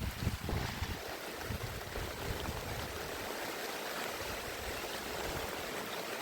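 Steady hiss of heavy rain and running water, with wind buffeting the microphone in the first second.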